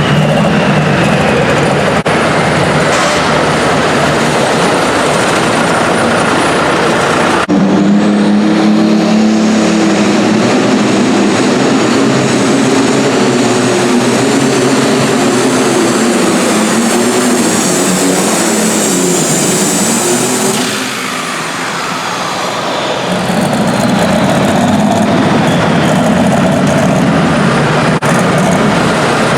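Super stock pulling tractor's turbocharged engine running hard under load with a high turbo whine. The sound changes abruptly about seven seconds in, as if to another run. About two-thirds through the engine eases off briefly, then picks up again.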